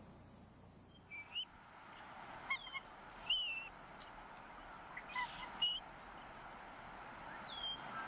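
Birds calling: about eight short, high calls that bend in pitch, coming singly and in pairs at uneven intervals over a faint hiss.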